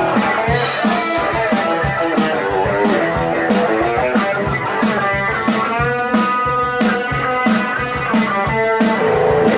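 Live electric guitar solo over a steady rock drum beat, with held and sliding notes about halfway through.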